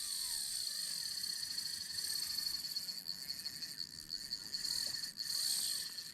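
Fishing reel drag buzzing steadily as a hooked skipjack tuna runs and strips line.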